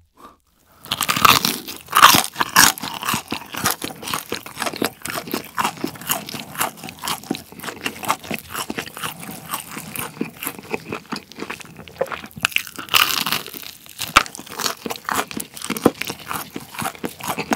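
Close-miked crunching and chewing of fried chicken with a crisp, spicy cheese-powder coating, bitten into and chewed continuously. It starts about a second in, the loudest crisp crunches come in the first few seconds, and there is another louder spell later on.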